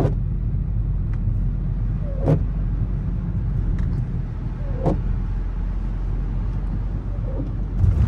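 Interior road and engine noise of a 2024 Volkswagen Atlas driving on snowy roads: a steady low rumble. A brief falling squeak and click comes about every two and a half seconds.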